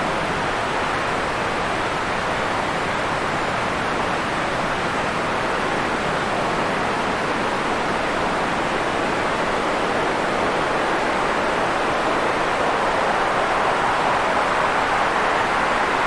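Steady white noise: an even, unchanging hiss with its weight in the middle of the range and no separate events.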